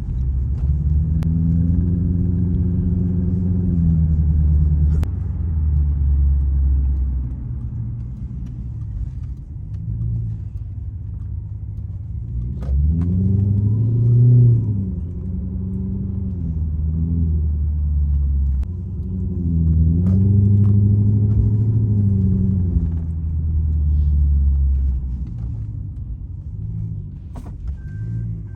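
Toyota Crown Majesta's 4.6-litre V8 through a full straight-through exhaust, pulling under acceleration and easing off. Its pitch rises and falls about three times and is loudest about 14 seconds in.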